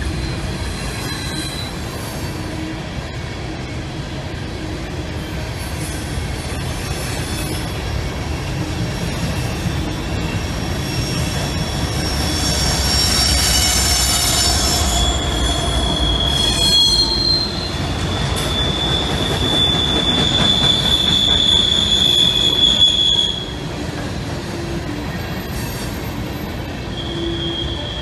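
Coal train of hopper cars rolling past with a steady rumble of wheels on rail. About halfway through, a pair of mid-train CSX diesel locomotives (distributed power units) go by and the sound grows louder, with a high, steady wheel squeal that cuts off suddenly a few seconds before the end.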